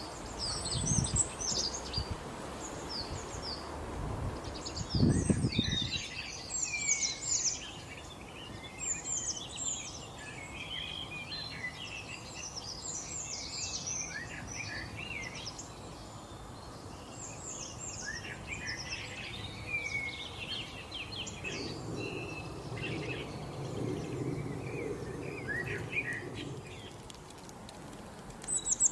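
Several small birds chirping and singing, with many short, quick calls overlapping. Two brief low rumbles come about one and five seconds in.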